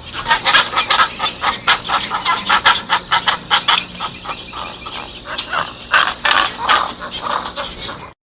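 A flock of domestic fowl calling over one another in quick, dense succession, cut off abruptly near the end.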